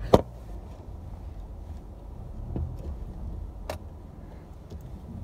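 Car engine running at low speed while the car is reversed, heard as a steady low rumble inside the cabin. A sharp knock comes right at the start, the loudest sound, and a lighter click follows near the end.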